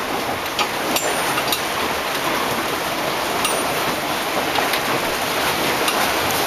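Steady rushing noise of wind and rain in rough weather, with scattered sharp ticks.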